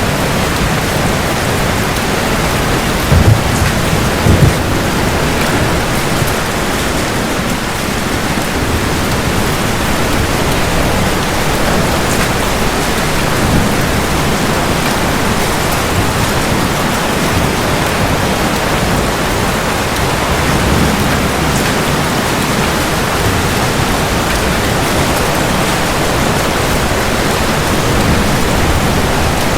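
Steady heavy rain with a thunderstorm. Two sharp, loud thunder claps come about three and four and a half seconds in, and softer rumbles of thunder follow later.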